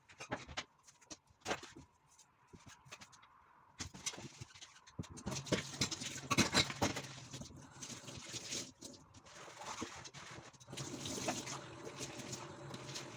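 Running water with many small clicks and knocks, starting about four seconds in after a few scattered clicks.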